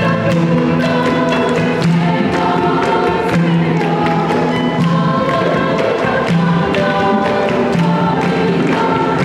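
Children's choir singing a Christmas carol, held sung notes over instrumental accompaniment with a steady beat.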